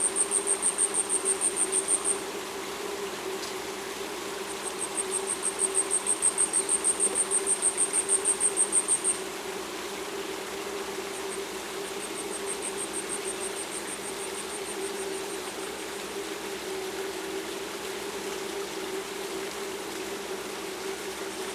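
Asian stubtail singing: long runs of very high, thin, rapid insect-like notes, one run ending about two seconds in, another swelling up from about four and a half seconds and stopping near nine seconds, and a fainter run after that. A steady low hum runs underneath.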